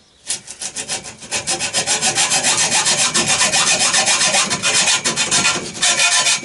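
Hand hacksaw cutting through a 25 mm nickel-plated metal tube in quick, steady back-and-forth strokes. The sawing stops near the end as the cut is finished.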